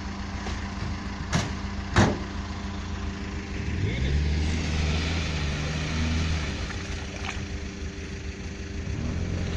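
Off-road 4x4 engine idling. Two sharp knocks come in the first two seconds, and about four seconds in the engine note rises and holds for a couple of seconds before settling back.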